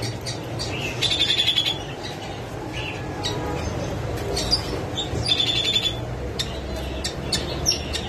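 Caged small birds, parakeets among them, chirping in short trilled bursts. The louder bursts come about a second in and again around five seconds in, with scattered single chirps between, over a steady low hum.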